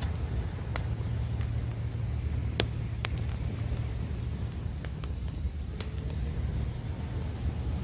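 Wood campfire crackling, with a handful of sharp pops, over a steady low rumble of ocean waves.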